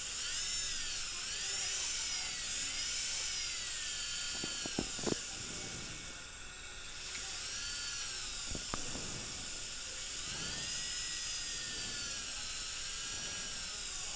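High-speed dental handpiece with a quarter-round bur whining as it cuts a groove into the remnant of a broken implant abutment, its pitch dipping and rising as the bur bites and eases. The whine slackens briefly about six seconds in, and a few sharp clicks come around five and nine seconds.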